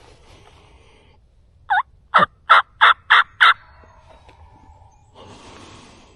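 Turkey yelps: one short note, then a run of five loud, evenly spaced notes at about three a second. A brief rustle follows near the end.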